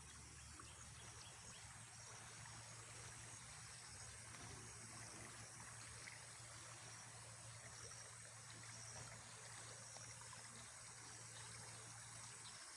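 Faint, steady chirring of insects such as crickets, with a low steady hum underneath.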